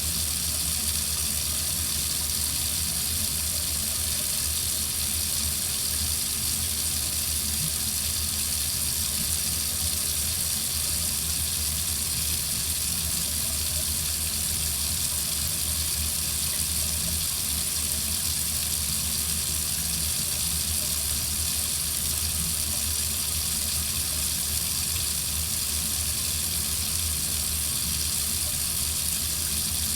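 Water running steadily from a tap into a sink, an even hiss of flowing water with no change.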